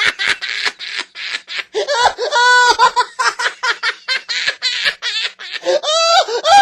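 A person laughing hard and loudly, a quick run of ha-ha pulses with a couple of longer drawn-out whoops.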